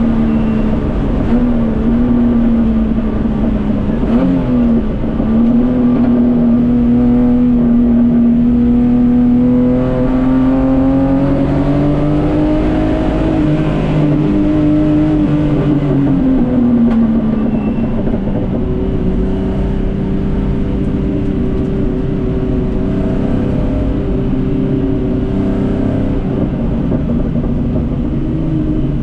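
Datsun 240K Group C race car's straight-six engine running hard on track, its pitch climbing and easing with the throttle. The note rises through the middle, drops back about halfway through, then holds steadier.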